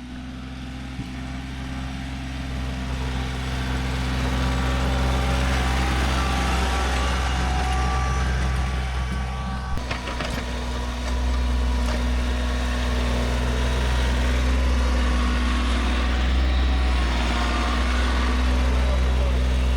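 Tractor engine running steadily under load while plowing heavy snow. It gets louder over the first few seconds as the tractor comes closer.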